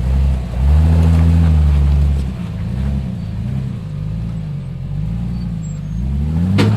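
Off-road Jeep engine revving up and down in repeated bursts under load, with one long, loud burst of throttle early and shorter blips after it. A single sharp crack or knock comes just before the end.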